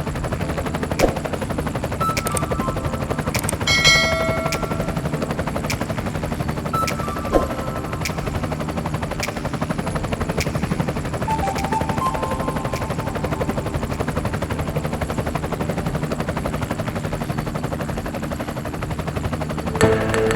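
Helicopter rotor chop with the turbine running, heard from on board as a steady, rapid low beating, with a few short tones over it, the clearest about four seconds in.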